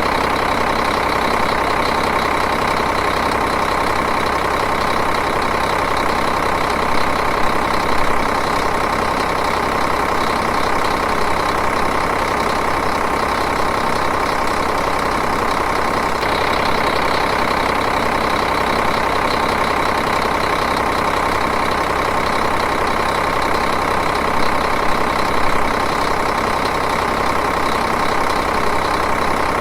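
Diesel engine idling steadily, an even continuous running with a few slight swells in loudness.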